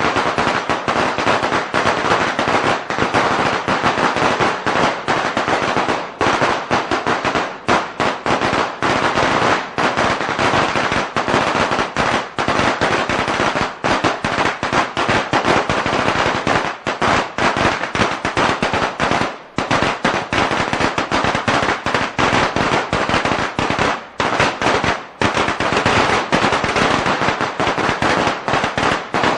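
A long string of firecrackers going off in a continuous rapid crackle of bangs, with only brief gaps.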